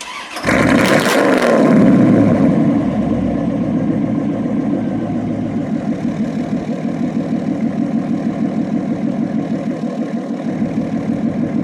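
C4 Corvette V8 starting through an exhaust with the mufflers removed: it catches about half a second in, flares up briefly, then settles into a steady, loud, lumpy idle.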